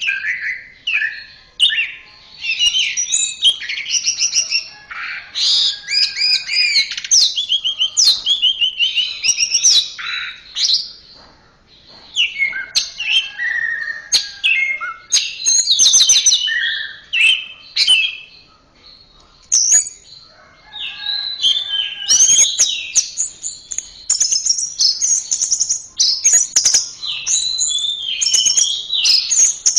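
Orange-headed thrush singing a long, varied song of quick whistled phrases and fast trills, with a couple of brief pauses.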